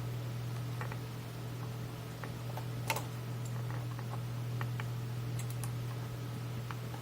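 Small scattered clicks and taps of soldering work on a circuit board, the sharpest one about three seconds in, over a steady low hum.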